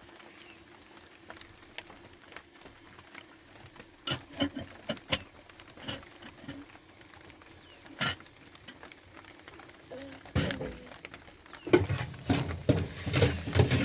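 Scattered clinks and knocks of dishes and utensils being handled, becoming busier clattering and rustling near the end.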